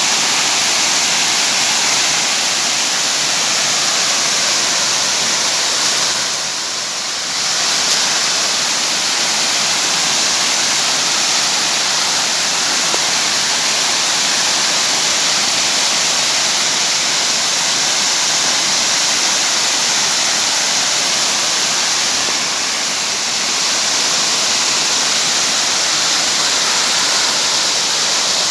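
Heavy rain falling in a steady, loud hiss that eases slightly twice for a second or so.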